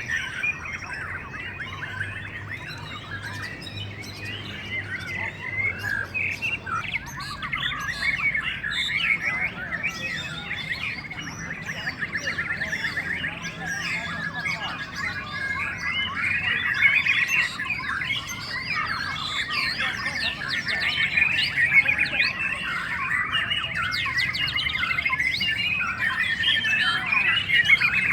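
Many white-rumped shamas (murai batu) singing at once, a dense tangle of overlapping whistled and chattering phrases that grows fuller from about eight seconds in.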